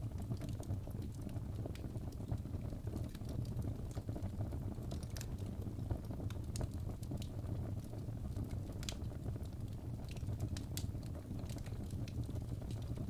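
Fireplace fire crackling, with a steady low rumble and scattered, irregular sharp pops.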